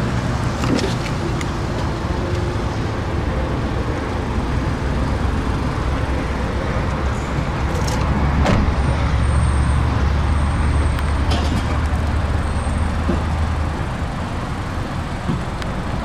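Steady low motor-vehicle engine rumble that swells louder for about five seconds past the halfway point, with a few light clicks.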